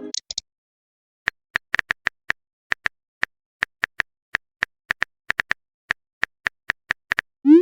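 Irregular run of short, sharp clicks, a few a second: a phone-keyboard typing sound effect.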